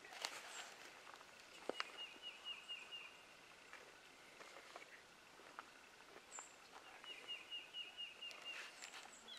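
A songbird sings two short phrases of about seven quick down-slurred notes each, one about two seconds in and one near the end, faint over quiet woodland background with a few sharp clicks.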